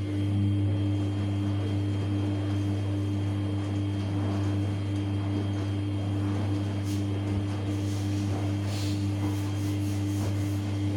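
Samsung P1271 washing machine running with a steady low hum.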